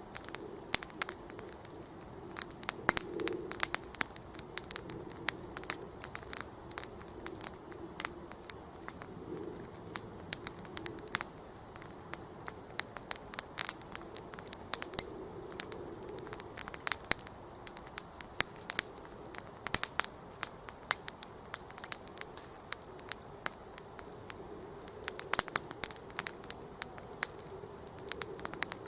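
Wood campfire burning and crackling, with a steady stream of irregular sharp pops and snaps, several a second, over a soft continuous hiss.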